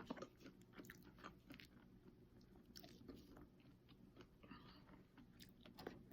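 Faint chewing and biting close to the microphone: scattered soft mouth clicks and smacks.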